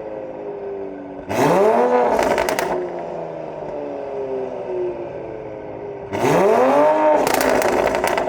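Toyota A90 Supra's B58 3.0 straight-six running through an FI valvetronic full exhaust, revved twice about five seconds apart. Each rev sweeps up quickly and falls back, with a burst of crackling pops as it drops, and the engine settles to idle in between.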